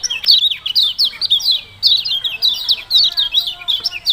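Kecial kuning bird chirping in a rapid, unbroken run of short 'ciak-ciak' notes, several a second.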